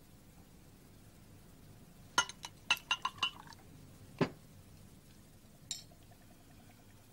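Glassware and dishes clinking: a quick run of sharp, ringing clinks a couple of seconds in, then a single knock and one more small clink.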